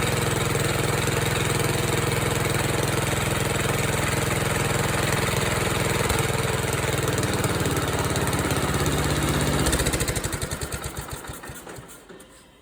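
Allis-Chalmers 416 garden tractor engine running steadily, fed by its own fuel pump after an ether start. About ten seconds in it winds down, its firing pulses slowing, until it stops.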